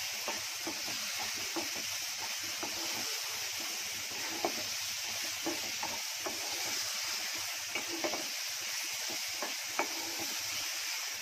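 Diced apple and spice powders sizzling steadily in hot oil in a pan on high flame, while a wooden spatula stirs and scrapes through them with faint scattered ticks.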